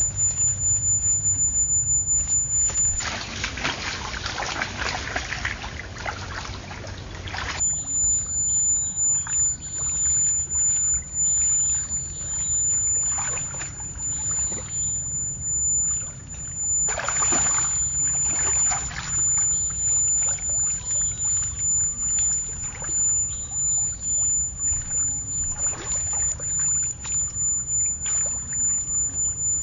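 Water sloshing and splashing, with louder spells of splashing about three seconds in and again around seventeen seconds in, over a steady low rumble.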